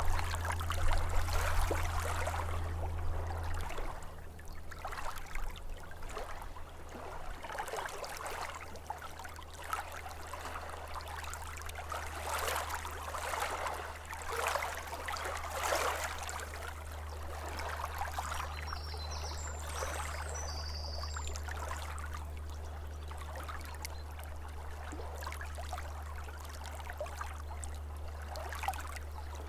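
Small waves lapping at a lake shore, in irregular swells of splashing and trickling, over a steady low rumble.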